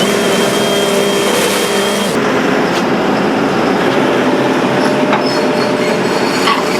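Hydraulic excavator working, its diesel engine and hydraulics running steadily with a high whine for the first two seconds and a few light knocks later on.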